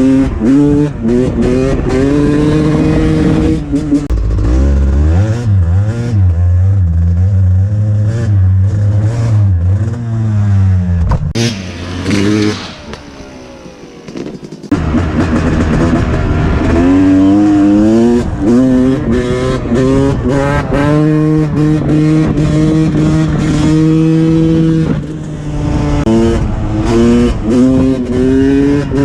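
Two-stroke dirt bike engine being ridden, revving up and dropping back again and again as the rider works the throttle and gears. Through the middle it runs low and steady for several seconds, goes quieter briefly, then cuts back in suddenly and keeps revving.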